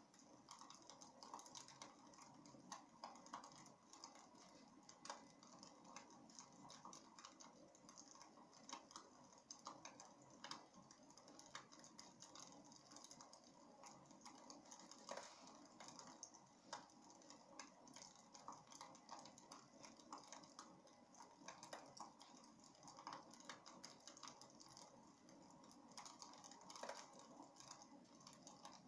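Wood fire crackling in a fireplace: faint, irregular pops and snaps over a soft steady rumble.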